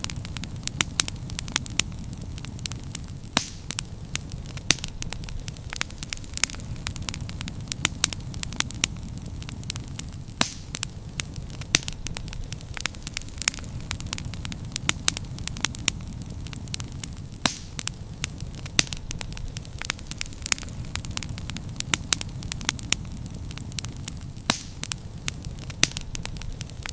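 Bonfire of firewood burning, crackling with many sharp, irregular pops over a steady low rumble.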